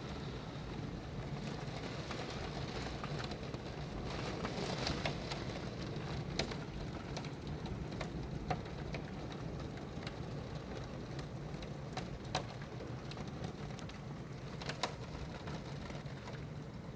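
Steady rain falling on surfaces during a hailstorm, an even hiss with about five sharp single ticks scattered through it.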